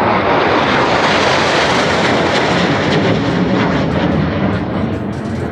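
Aircraft passing low overhead with a loud, steady roar of engine noise that eases slightly near the end and then cuts off abruptly.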